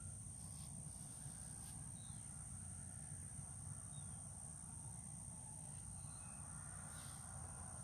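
Steady high-pitched insect chorus over a low steady rumble, with a few faint short chirps.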